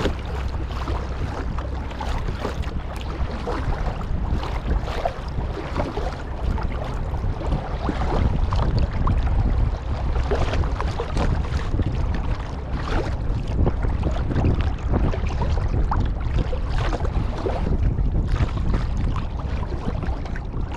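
Sea kayak being paddled: the paddle blades splash irregularly and water washes along the hull. Wind buffets the microphone with a steady low rumble.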